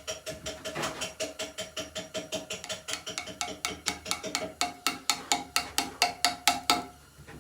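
Hand hammer striking a steel chisel against stone in a fast, even rhythm of about five blows a second, each blow with a slight metallic ring. The blows grow louder and stop about seven seconds in.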